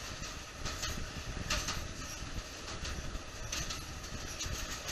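The Tren de Sóller, a narrow-gauge electric train, running through a tunnel: a steady rumble and rattle of wheels on rails. Brief higher-pitched screeches from the wheels come about a second and a half in and again a little after three and a half seconds.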